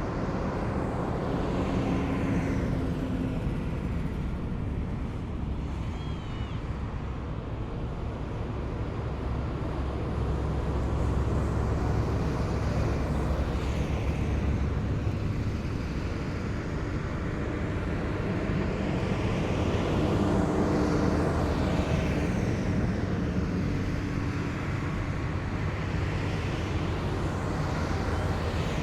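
Heavy military vehicles driving past in a column, their big diesel engines rumbling deep and steady, with vehicles passing close one after another.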